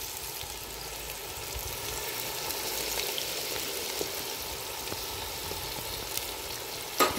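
Sliced bitter gourd (karela) deep-frying in hot oil: a steady sizzle. A sharp knock comes near the end.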